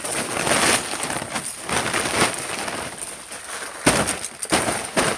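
Sleet-crusted ice crunching and cracking, with irregular crackles and a sharper crack about four seconds in.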